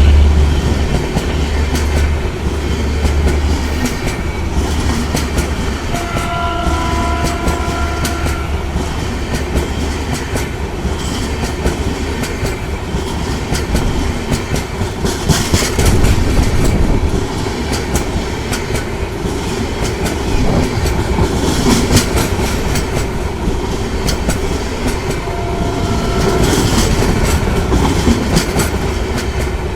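An express train's passenger coaches rolling past, their wheels clattering over the rail joints, with a low rumble easing off over the first few seconds. A short steady tone sounds about six seconds in and again near the end.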